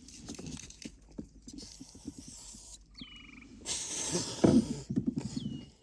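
Aerosol mosquito repellent sprayed in two long hissing bursts, about a second and a half in and again near four seconds, with handling knocks loudest during the second burst. About three seconds in, an animal calls with a short falling whistle and then a quick pulsed trill.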